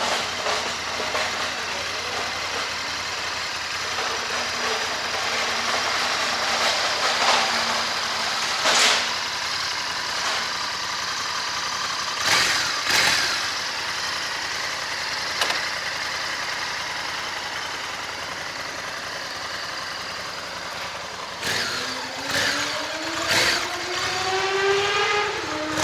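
Honda Africa Twin 1100's parallel-twin engine on its stock exhaust, running with a few short throttle blips, then rising in revs near the end as it accelerates.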